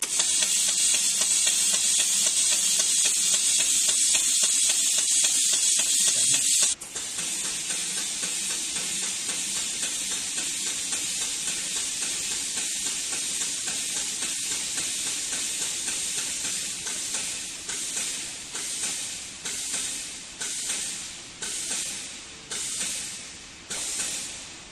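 Sawmill line machinery running with a loud, steady hissing rush. It drops in level suddenly about a quarter of the way through, and near the end it swells and fades in a series of pulses about once a second.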